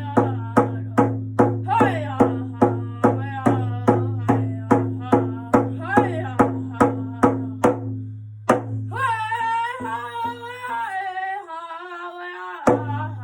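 Indigenous drum song: a singer's voice over a steady drumbeat of about two and a half strokes a second. The drum drops out after about eight seconds while the voice carries on alone on a falling line, and the beat comes back in near the end.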